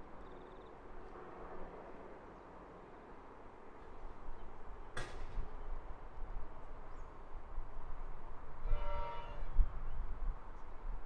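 Comeng electric multiple unit approaching, a low rumble growing louder from about four seconds in, with one sharp click about five seconds in. A short pitched call sounds near the end.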